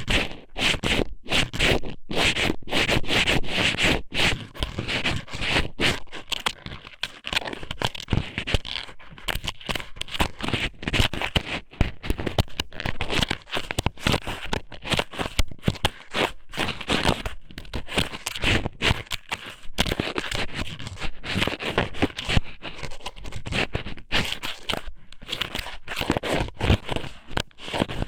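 Strips of squid sōmen (thin-cut raw squid) rubbed and pushed around inside the ear of an ASMR microphone, making a close, continuous run of irregular scraping and crackling with short breaks.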